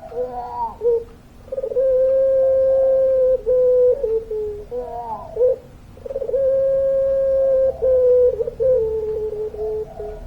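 Puter pelung, a long-voiced breed of domestic ringneck dove, cooing. There are two long drawn-out coos of about two seconds each, each led in by short notes and trailing off into a few short broken notes.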